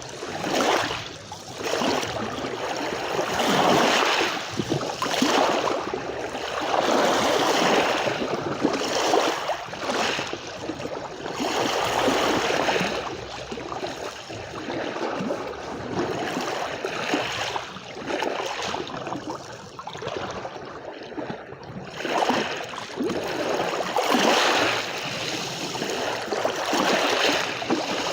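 Sea waves breaking and washing on a shore, swelling and ebbing in repeated surges every few seconds.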